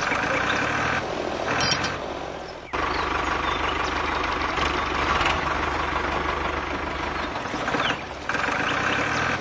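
An engine running steadily, broken by abrupt cuts about two and a half seconds in and again near the end. Birds chirp faintly over it.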